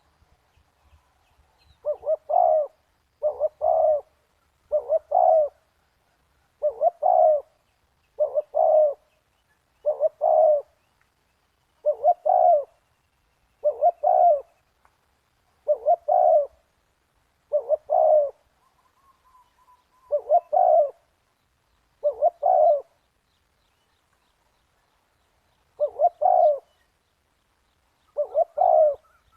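Spotted dove cooing: short, low, multi-note coo phrases repeated about every two seconds, with one longer pause near the end.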